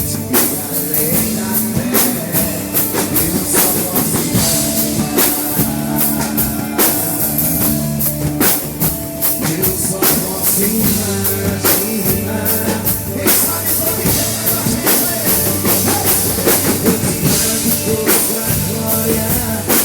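Live band playing an instrumental passage between sung verses, led by a full drum kit: steady drum and cymbal hits over held bass and chord tones.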